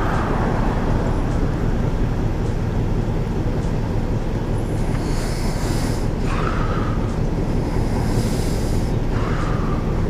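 Wind rushing over the microphone and road noise from riding a CSC City Slicker electric motorcycle, a steady rumble with a brighter hiss swelling about every three seconds.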